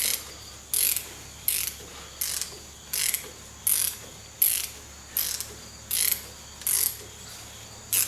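Hand ratchet wrench being worked on a nut, its pawl clicking in a short burst on each back-swing, a little over once a second, as a suspension cross-member nut is undone.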